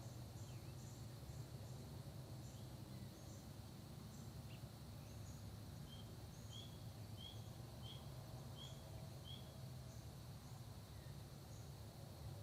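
Faint early-morning countryside ambience: a steady high-pitched insect drone with a low steady rumble beneath. Partway through, a bird repeats a short chirp about six times at an even pace, with scattered faint bird calls around it.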